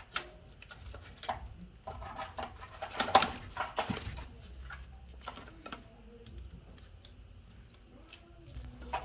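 Irregular light clicks and clinks of hand tools and metal fittings being handled during water line hook-up, with a denser clatter about three seconds in.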